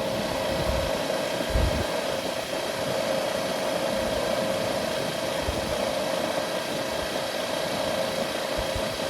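Refrigerant recovery machine running steadily as it pulls refrigerant out of the system into the recovery tank. It gives a constant mid-pitched whine over a rushing noise.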